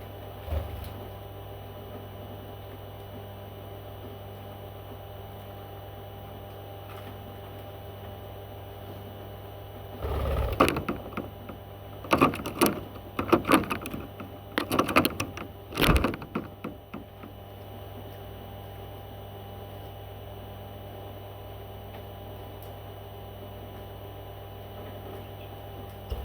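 Steady electrical hum, with about six seconds of irregular clattering and knocks starting about ten seconds in, ending in one sharp knock.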